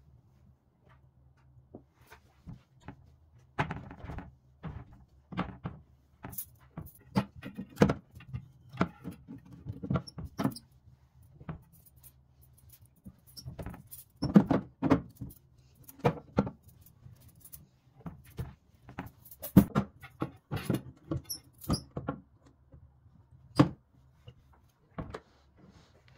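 Irregular clatter and knocks of household objects being handled and set down, in clusters with short pauses, over a faint steady low hum.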